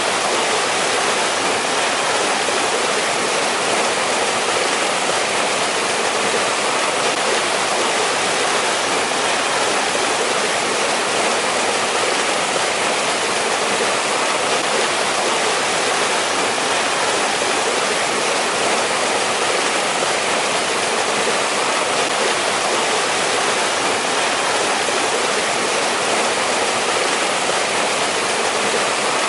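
Mountain stream rushing and splashing steadily over rocks, a constant hiss of flowing water with no let-up.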